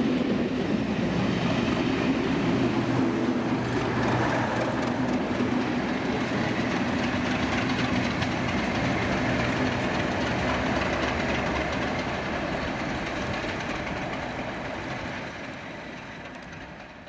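Class 37 diesel locomotives and test train moving off slowly: engine hum and rolling wheels with a clickety-clack over the rail joints, dying away over the last few seconds.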